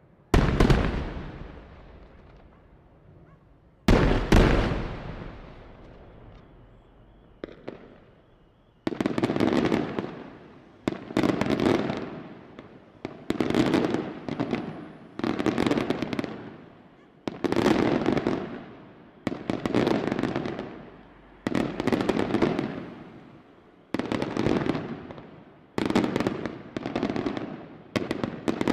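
Daylight fireworks display: two heavy booms, one at the very start and one about four seconds in, then from about nine seconds a regular run of bursts, each a dense cluster of rapid reports, coming roughly every two seconds.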